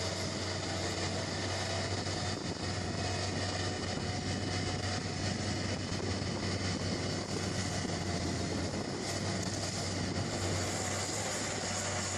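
Heavy tracked forestry machine's engine running steadily under work, a constant low hum with a steady mechanical noise over it.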